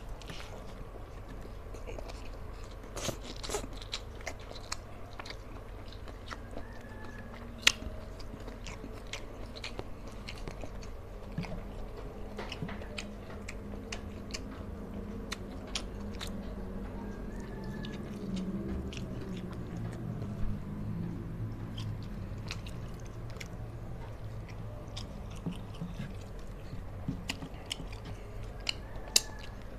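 Close-miked chewing of a mouthful of rice and fish eaten by hand, with many sharp, wet mouth clicks and smacks.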